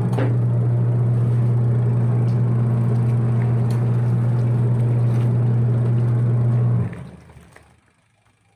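Single-tub washing machine running its wash: the motor hums steadily under the churning of water and clothes, then winds down and stops about seven seconds in as the agitator pauses in its wash cycle.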